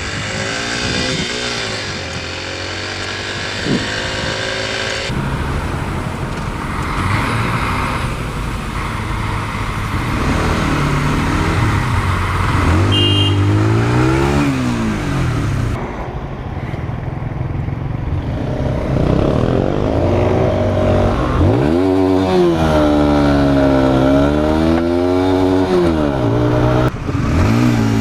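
Motorcycle engine accelerating through the gears, its pitch rising and dropping at each shift several times, over steady road and wind noise. The sound changes abruptly a few times.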